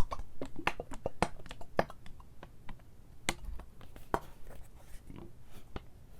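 Hands handling an object close to the microphone, making a run of irregular crisp clicks and crackles that thin out toward the end.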